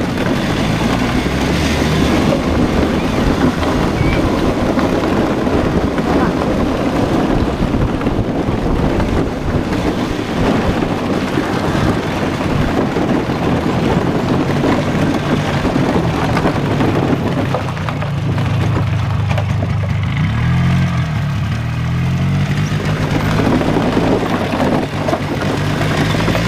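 A motor vehicle's engine running while driving, with wind and road noise. The engine pitch rises and falls about two-thirds of the way through.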